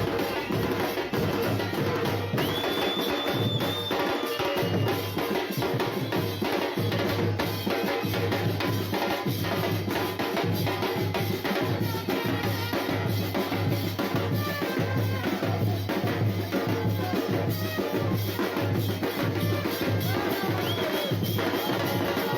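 Drum-driven music with a steady, evenly repeating bass drum beat under dense percussion, and a brief high held tone a few seconds in.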